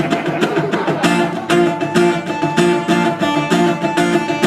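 Acoustic guitar strummed in an even, quick rhythm, with chords ringing and no voice: the instrumental lead-in before the vocal enters.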